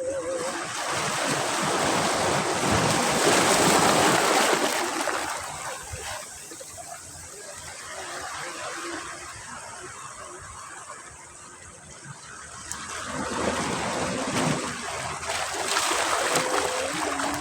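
Ocean surf breaking and washing up a beach. One wave comes in loudest about three to four seconds in and then falls back to a quieter wash, and another wave builds up near the end.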